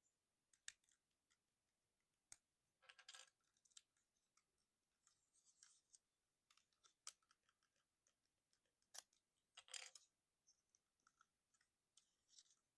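Faint clicks and short scrapes of a plastic Transformers figure's parts being moved by hand, joints and panels clicking into place as it is converted from jet to robot. A few sharp clicks stand out, with two brief rasping scrapes, one about three seconds in and one near ten seconds.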